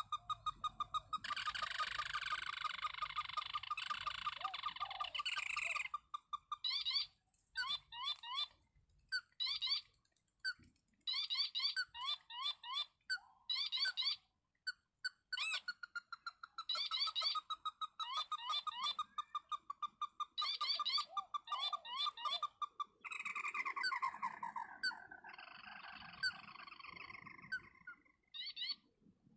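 Crake calls: runs of rapid, sharp repeated notes and long trills, stopping and starting again.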